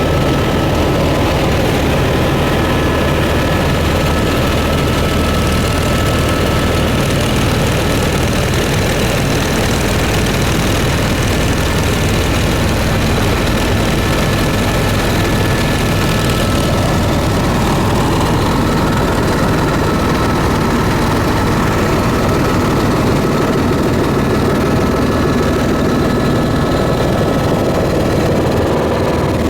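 Steady, unbroken drone of a propeller aircraft's engines, with a low hum and a few thin steady tones over it.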